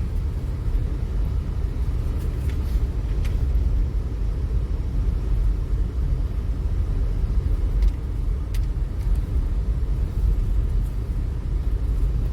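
Steady low rumble of a vehicle's engine and tyres, heard inside the cabin while driving on snowy town streets, with a few faint clicks.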